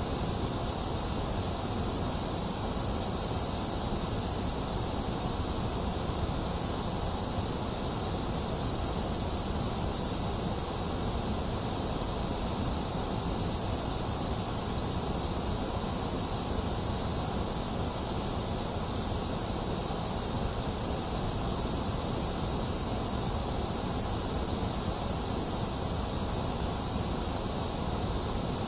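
Box fan running steadily, mixed with continuous rain. The sound is an unchanging noise with a low rumble and a bright hiss, and no thunder.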